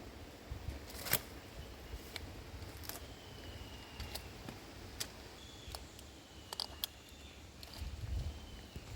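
Metal climbing hardware, a figure-8 descender and carabiner on a rope, clinking in scattered light clicks.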